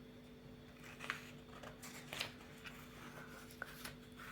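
Faint soft clicks and short light scratches, a few scattered through, over a steady low electrical hum.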